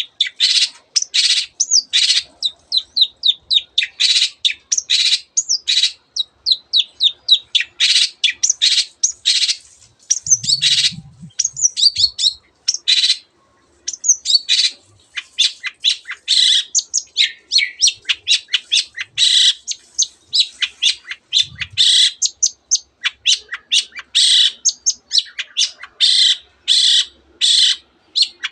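A long-tailed shrike singing a fast, dense song of short, sharp, high notes in rapid runs, woven with mimicked phrases of canaries and other birds.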